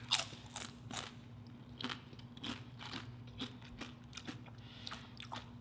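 Close-up crunching of tortilla chips being bitten and chewed: an irregular run of crisp crunches, the loudest in the first second.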